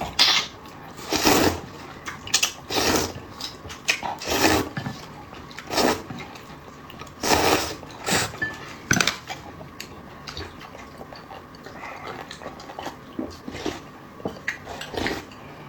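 Close-miked eating noises: loud bites and slurps coming about every second and a half, then smaller, sparser chewing sounds in the second half.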